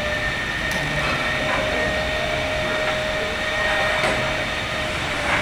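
Train running along the track: a steady rumble with a held, even whine over it.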